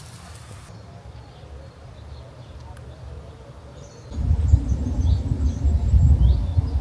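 A low rumbling noise that becomes much louder about four seconds in, with faint small-bird chirps above it.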